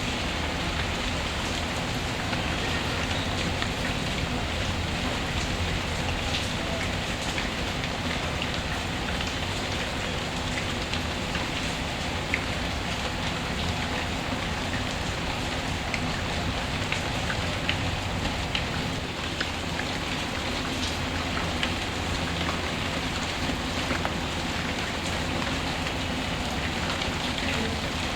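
Steady rain ambience mixed with a crackling fireplace, scattered small crackles and ticks over an even hiss of rain.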